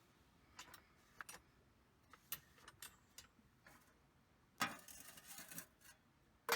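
Scattered light clicks and taps, then a longer patch of clatter and rustling a little past halfway, and a single sharp knock near the end: objects being handled.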